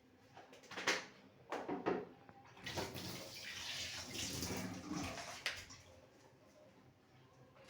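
Water splashing and trickling in a bucket as a cleaning cloth is worked in warm soapy water, for about three seconds in the middle, with a few light knocks before it.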